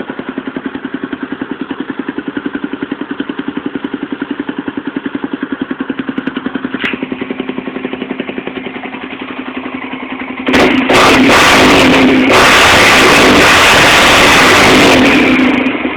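A 2003 Honda 300EX quad's single-cylinder four-stroke engine idling through a Vance & Hines aftermarket exhaust, with an even, rhythmic pulse. About ten seconds in, a sudden loud rushing noise covers the engine for the last few seconds.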